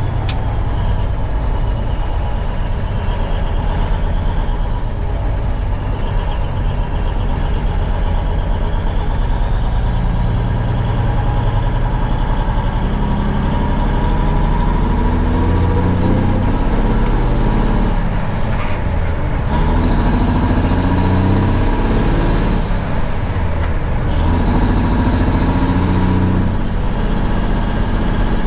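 1971 Peterbilt 359 semi truck's diesel engine running under load, its pitch climbing and dropping back several times as it goes through the gears, with a short sharp hiss about two-thirds of the way through.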